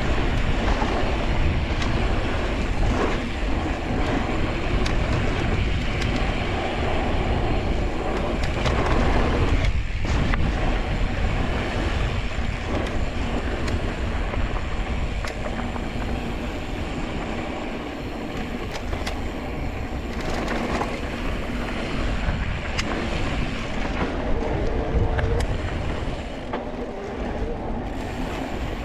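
Mountain bike riding noise: a steady low rumble of wind on the microphone and tyres rolling over dirt and rock, with scattered sharp clicks and rattles from the bike over bumps.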